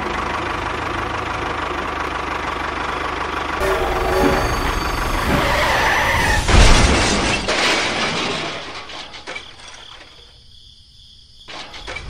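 A running engine, then a louder, noisier stretch from about four to eight seconds in with a sharp crash-like peak near the middle. It fades to a low level near the end.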